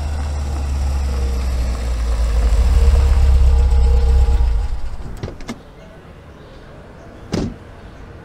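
Classic first-generation Ford Mustang's engine rumbling as the car drives, swelling to its loudest a little past a third of the way in and then dropping away just past halfway. A few short sharp clicks follow, the loudest near the end.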